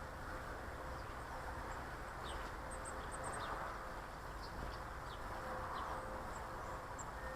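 Faint, short, high chirps of small garden birds, scattered and including a quick run of peeps about three seconds in, over a steady outdoor background hiss with a faint low hum.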